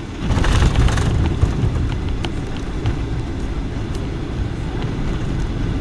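Boeing 757-200 touching down, heard from inside the cabin. About a third of a second in, the sound jumps to a brief loud hiss, then settles into a heavy low rumble of the wheels rolling on the runway, with scattered clicks and rattles from the cabin.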